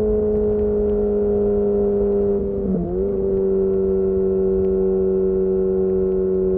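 Yamaha FZ6N's inline-four engine running through its Two Brothers exhaust at steady revs, the pitch easing slowly down, with a brief dip and wobble in the engine note about three seconds in before it settles again.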